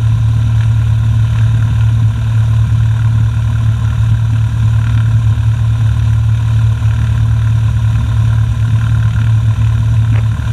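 Cessna Skyhawk's single piston engine idling steadily with a constant low drone, before taxi.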